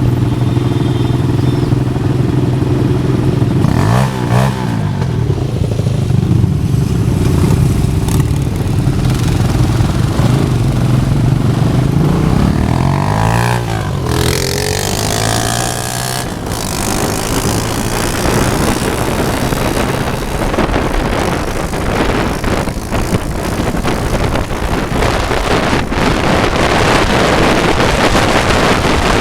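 Motorcycle engines running, with pitch sweeps about four seconds in and again around thirteen seconds as bikes pass or rev. A steady rushing noise builds through the second half.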